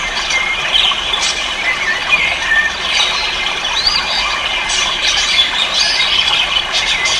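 Many caged ornamental birds chirping and squawking at once: a dense, constant chatter of short high calls and quick pitch glides, with no single bird standing out.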